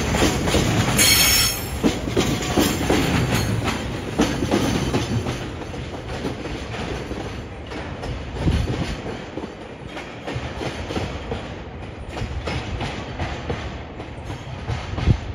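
Freight train of Taki 1000 tank wagons rolling past, wheels clacking over the rail joints, with a brief high squeal from the wheels about a second in. The running noise fades steadily as the train moves away.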